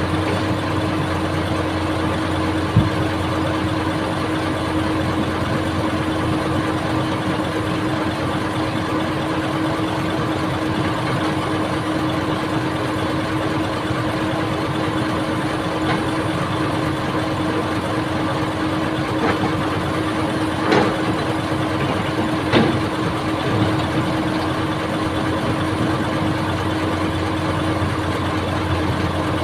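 Old excavator's diesel engine running steadily at a constant pitch. A sharp knock comes about three seconds in, and a few more around twenty to twenty-four seconds in.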